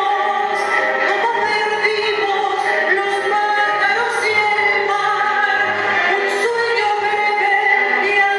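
A woman singing a slow tango song, holding long notes with vibrato over instrumental accompaniment.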